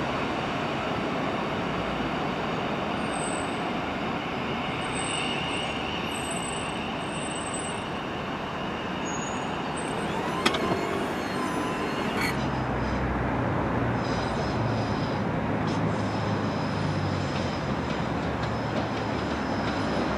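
Electric passenger train running on the rails, a steady rumble with faint high whistling. There is a sharp click about ten and a half seconds in, and from about twelve seconds a low hum and a steady high whine join in.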